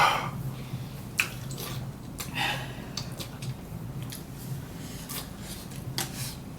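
Close-up eating sounds: wet chewing and mouth clicks, with a short slurp-like smear about two and a half seconds in, over a steady low hum.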